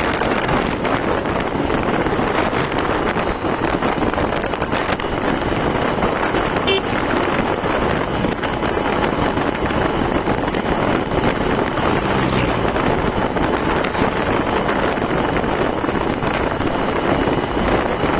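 Wind rushing over the microphone of a moving Hero Xtreme 160R motorcycle, a steady roar with the road and traffic underneath. A short high beep sounds about seven seconds in.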